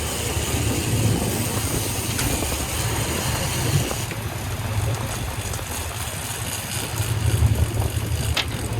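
A sportfishing yacht's engines running with a steady low rumble under a constant hiss of wind and water. A short sharp tick sounds near the end.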